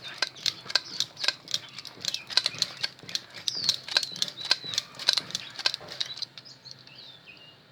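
Quick, rhythmic clicking and rattling of thin copper magnet wire being wound by hand, turn after turn, into the slots of a power-drill armature, about three clicks a second, stopping about six seconds in. A few faint high bird chirps follow near the end.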